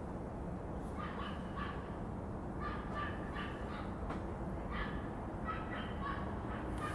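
An animal giving a series of short, pitched calls, several a second in irregular bunches, starting about a second in, over a steady low outdoor rumble.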